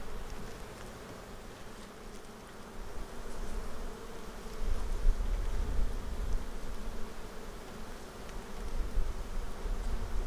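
Honeybees buzzing in a steady hum over an open hive as its frames are inspected. A low rumble joins about four and a half seconds in.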